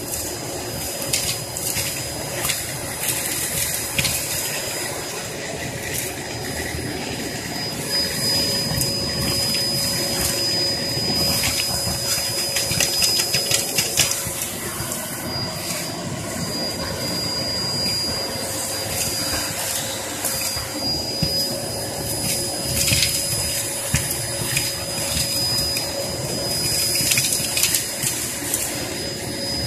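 Hoover Performer Pet upright vacuum cleaner running steadily with a high motor whine, sucking up fireplace ash and grit that rattle and crackle through it.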